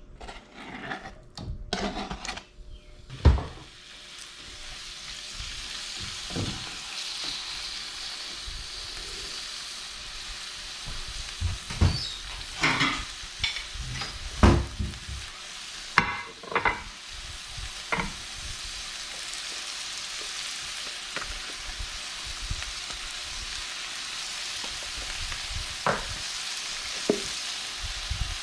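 Cubed chicken frying in a pan: a steady sizzle that builds up a few seconds in after a loud knock, with scattered clacks of a utensil stirring and scraping against the pan.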